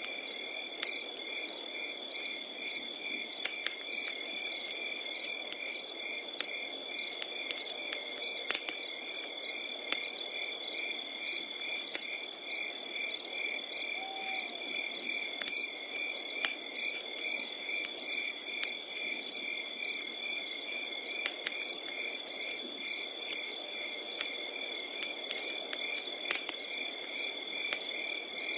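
Crickets chirping steadily: one holds a continuous high trill while others pulse in regular chirps about three times a second. A wood campfire crackles underneath with scattered sharp pops and a faint hiss.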